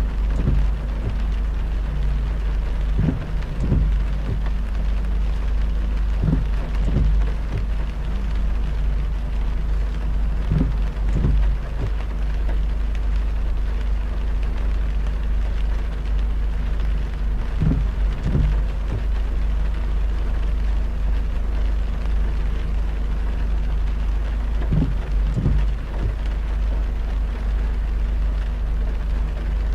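A car driving on a wet road in heavy rain: a steady low rumble with rain and tyre noise. A pair of dull thumps, about half a second apart, comes every few seconds.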